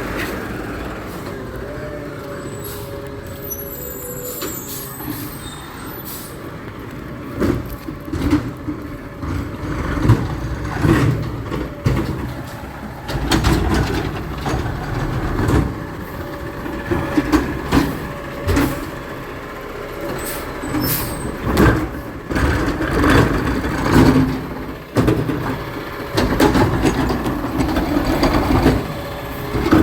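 Garbage truck working: its engine runs steadily at first, then from about seven seconds in comes a long run of irregular clanks and bangs.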